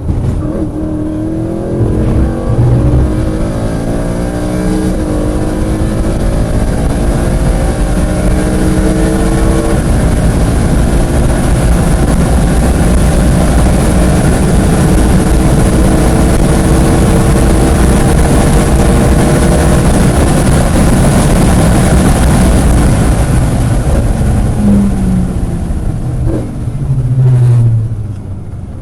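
Onboard sound of a track car's engine at full throttle, pulling up through the gears with rising pitch between shifts, then holding high revs with heavy wind and road noise. Near the end it brakes and downshifts, with quick rev changes.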